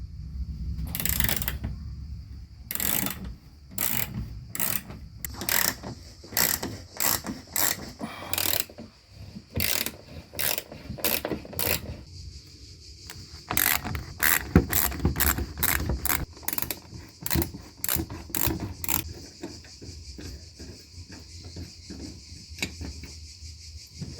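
Ratchet wrench being worked in repeated strokes on a fastener, clicking once or twice a second. There are two runs of strokes with a short pause between them.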